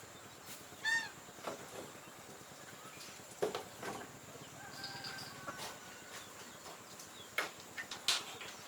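Poultry calling: one short honking call about a second in, then fainter calls near the middle, among scattered light knocks and clicks.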